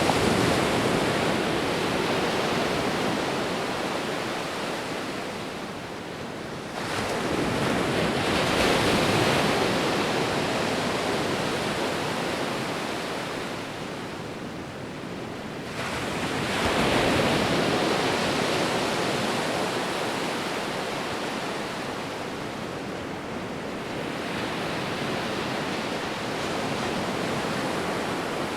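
Sea waves breaking and washing on a shore, a steady rush of surf that swells with a new wave about every seven to nine seconds, at about the start, a quarter of the way in, past halfway and near the end, each surge fading slowly.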